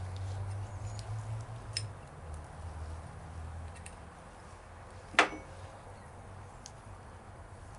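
Small metal clicks and one sharp clink about five seconds in, from tools and carburetor parts being handled during disassembly, over a low steady hum that fades after a few seconds.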